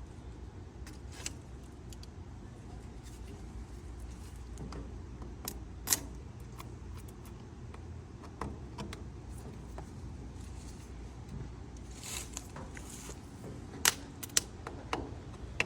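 Scattered metallic clicks and clinks of tools and wiring being handled on an old Ford 600 tractor's starter circuit, with a loud clink about six seconds in and a quick cluster near the end, over a steady low background rumble.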